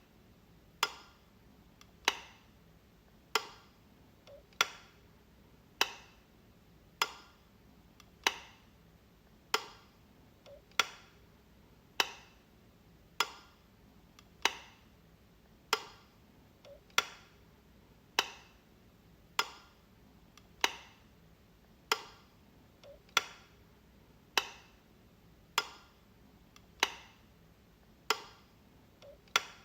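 A light switch clicking over and over, one sharp click about every 1.2 seconds.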